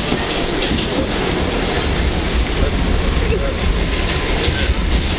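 New York subway train running, a steady rumble and rattle of the wheels on the track heard from inside the moving car.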